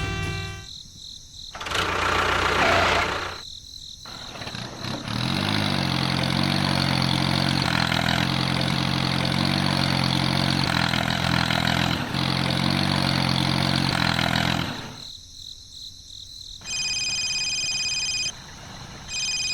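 A small engine starts about five seconds in, runs steadily for about ten seconds and then stops, after a brief noisy burst near the start. Near the end, a high steady shrill chirping comes twice.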